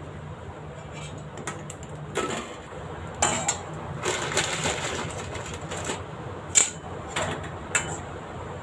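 Crisp fried pani puris clicking and crackling as they are handled in a pan of hot oil, several sharp clinks among them, the loudest about six and a half seconds in, over a low steady hum.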